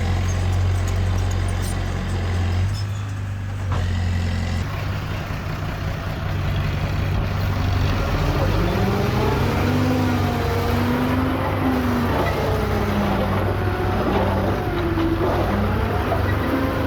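Heavy diesel earthmoving machinery running steadily, a bulldozer or dump truck engine, with a sudden change in the sound about a quarter of the way in. In the second half a wavering pitched tone rises and falls over the engine.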